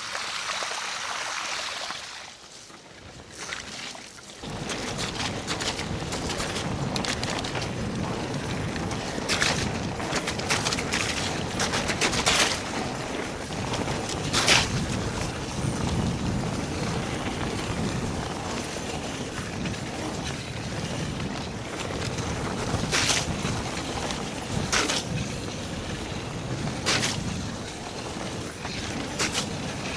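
Mountain bike riding along a wet trail: a steady rush of tyre and riding noise with frequent sharp knocks and rattles from bumps. It is quieter for the first few seconds and picks up about four seconds in.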